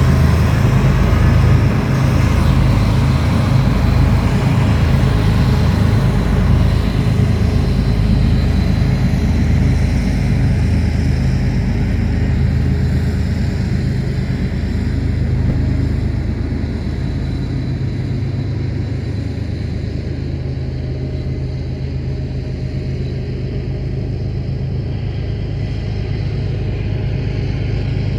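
A heavy engine's low, steady drone, slowly growing quieter.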